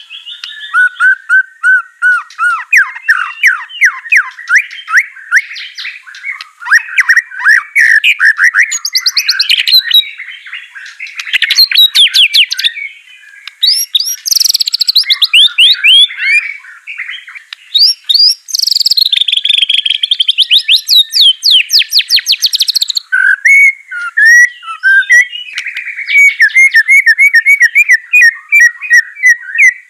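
White-rumped shama (murai batu) singing a loud, fast, varied song of rapid trills, sweeping whistles and chattering repeated notes, with hardly a pause.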